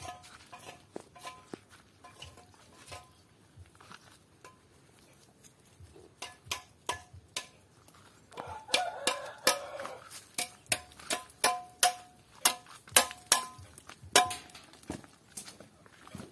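Steel mason's trowel working refractory mortar and bricks: a series of sharp, ringing taps and knocks, scattered at first and coming thick and fast from about the middle, with a stretch of scraping near the end.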